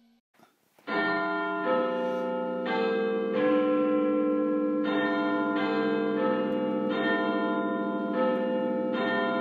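Large tower bells ringing, struck one after another, about a second and a half apart at most and mostly quicker, each note ringing on under the next. They begin about a second in, after near silence.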